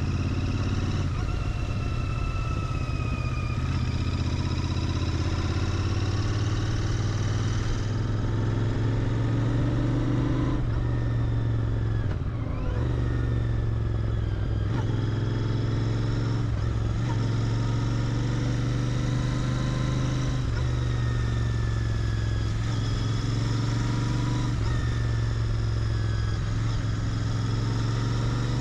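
Royal Enfield Interceptor 650's parallel-twin engine through its stock exhaust while riding, the engine note rising and falling with the throttle and dropping briefly several times at gear changes.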